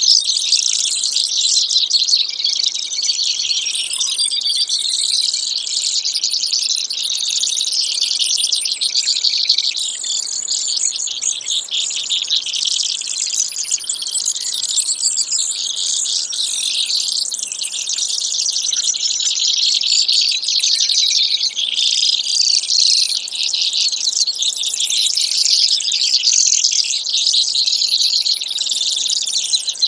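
Brewer's sparrow song: a continuous stream of rapid, high-pitched trills with no pauses.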